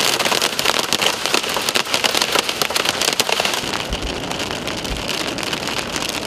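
Heavy rain pelting a moving vehicle's roof and windshield, a dense steady crackle of drops that eases a little about halfway through.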